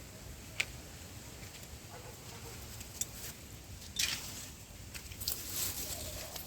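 Rustling and snapping of leafy vines and stems being pulled and handled: a couple of sharp clicks, then irregular rustling from about four seconds in.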